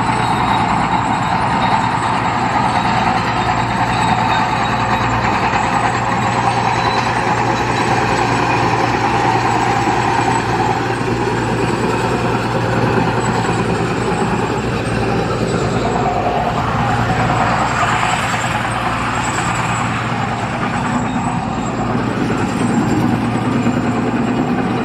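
Heavy diesel construction machinery running steadily: a constant low drone with dense mechanical noise over it, unbroken throughout.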